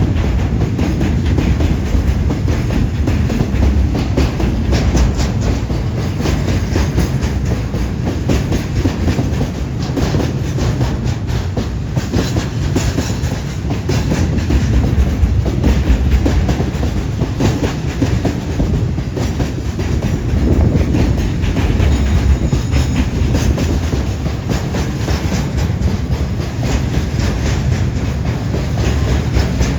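Freight train with container wagons rolling past, a continuous loud rumble with wheels clacking over the rail joints.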